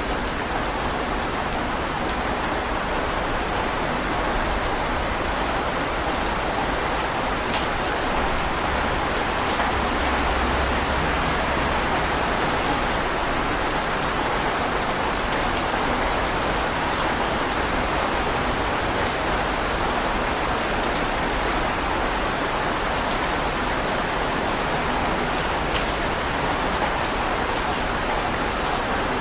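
Heavy rain falling steadily, a dense even hiss with a few sharper drop strikes.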